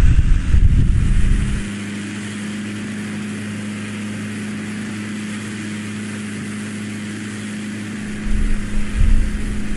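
A steady engine hum holding one pitch, with wind buffeting the microphone at the start and again near the end.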